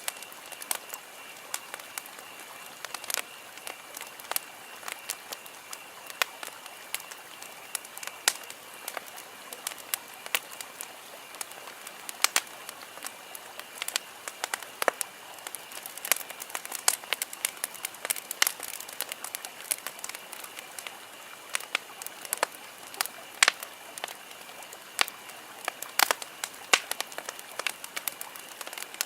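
Wood campfire crackling: irregular sharp pops and snaps, several a second at times, over a steady hiss of burning, with a faint steady high tone underneath.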